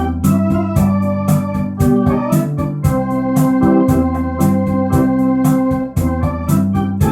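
Electronic organ playing a rumba: sustained chords and a melody over bass notes, with the built-in rhythm section's drum hits keeping a steady beat.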